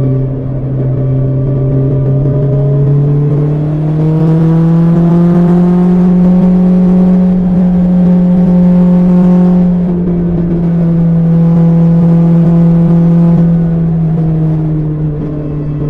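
BMW S1000XR's inline-four engine running through an Akrapovic exhaust under way. Its pitch rises gradually a few seconds in, holds for several seconds, then eases back down near the end.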